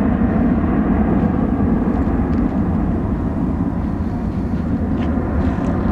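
Jet engines of a Boeing 757 at departure power, a steady loud low rumble.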